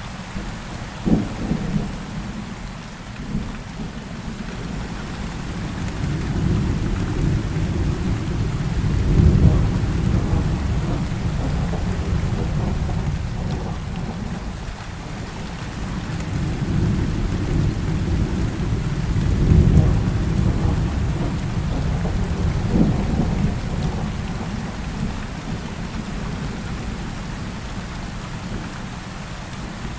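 Heavy rain falling steadily, with thunder: a couple of sharp cracks in the first few seconds, then two long, deep rolling rumbles that swell and fade, the first about a third of the way in and the second about two thirds in, and another crack a little later.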